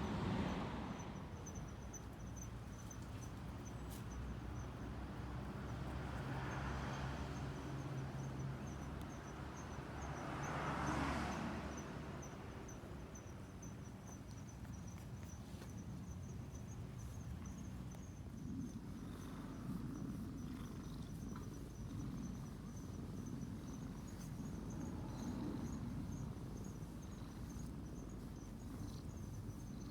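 Crickets chirping steadily in a high, evenly pulsed trill, with a broad swell of noise from passing traffic a third of the way in.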